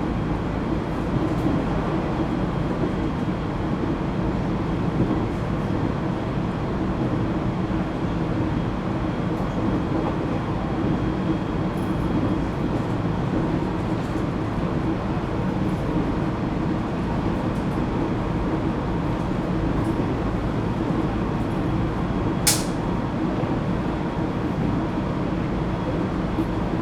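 ET127 series electric multiple unit running at steady speed: a continuous rumble of wheels on rail with faint steady tones. One brief sharp click cuts through about 22 seconds in.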